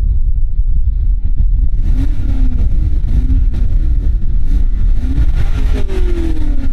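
BMW X6M's twin-turbo V8 exhaust, through a Valvetronic Designs valved sport exhaust, under load with a heavy low rumble. Its pitch rises and falls several times, then drops away in a long falling sweep near the end.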